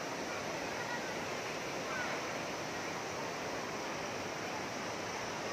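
Steady rushing noise, even throughout, with a few faint short chirps above it.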